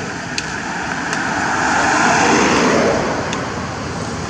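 Road-traffic noise, like a vehicle passing, that swells to a peak about halfway through and eases off, with a few faint clicks.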